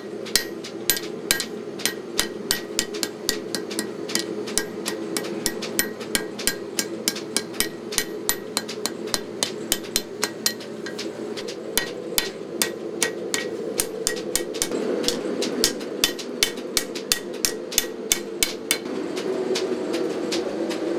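25 lb Little Giant power trip hammer striking a hot 5160 spring-steel knife blade, a fast, even run of metal-on-metal blows at about three to four a second, with a short pause about halfway through. A steady low roar runs underneath.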